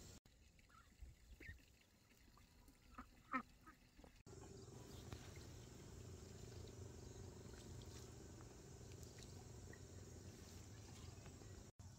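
Faint short animal calls in the first few seconds, the loudest about three and a half seconds in. After a cut, a steady low background noise.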